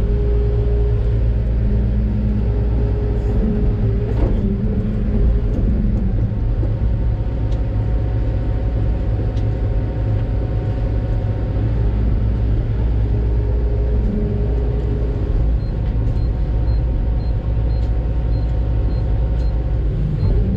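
Doosan DX600 excavator's diesel engine and hydraulics working, heard from inside the cab as a steady low rumble with a whine that comes and goes as the hydraulics are loaded. A single knock comes about four seconds in, and a faint quick beeping, about two beeps a second, sounds near the end.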